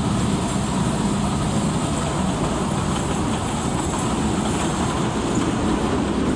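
Kurobe Gorge Railway trolley train running along its narrow-gauge track, a steady noise of wheels and carriage heard from aboard.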